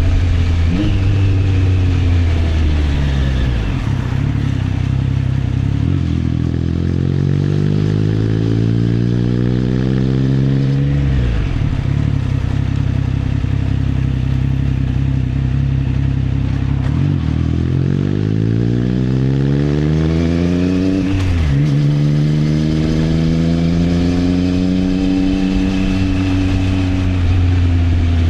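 Triumph Trident 660's inline three-cylinder engine through an Arrow exhaust, under way and accelerating. The pitch climbs twice and drops sharply about eleven and about twenty-one seconds in, then holds steady at cruise.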